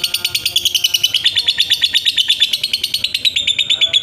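Lovebird giving its long 'ngekek' call: an unbroken, rapid chatter of sharp high chirps at about ten a second.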